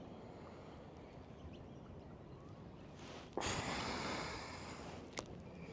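A person's sharp breath out through the nose close to the microphone, starting suddenly about halfway through and fading over a second or so, then a single short click near the end.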